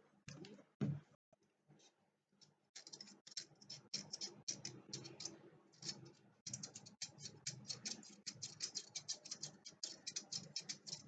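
Quick runs of small, sharp clicks and taps on a laptop's plastic parts, several a second, with a louder knock about a second in.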